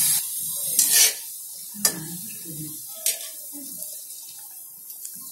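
Batter-coated coconut rolls frying in hot oil in an aluminium karahi, sizzling in a short burst about a second in as another piece goes in, then a fainter hiss. A metal spoon clinks against the pan twice.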